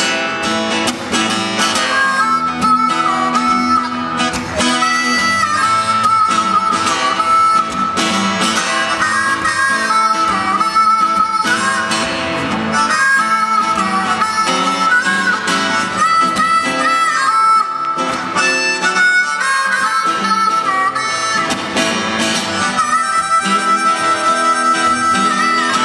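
Acoustic blues played on harmonica and acoustic guitar: a harmonica melody of held, bending notes over steadily strummed guitar, as the instrumental intro to a song.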